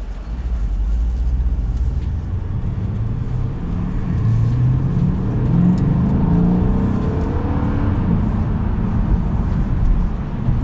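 Mercedes E63 AMG's twin-turbo V8 in Sport Plus mode, heard from inside the cabin with the sunroof tilted open. The engine note builds about a second in and rises in pitch as the car accelerates.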